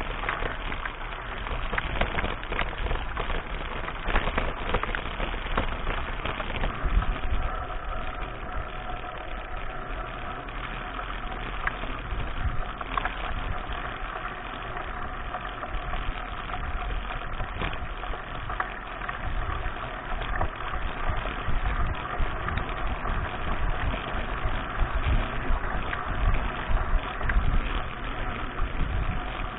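Wind rumble and jolting on an action camera's microphone during a mountain bike ride on dirt tracks, with frequent clicks and rattles from the bike and tyres over rough ground.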